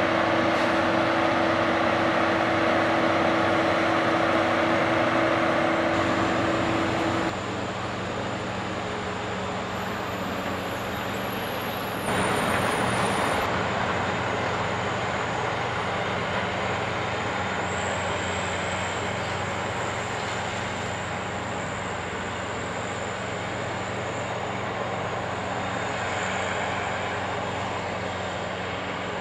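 Heavy diesel machinery running steadily, with the engine sound changing abruptly about seven and twelve seconds in.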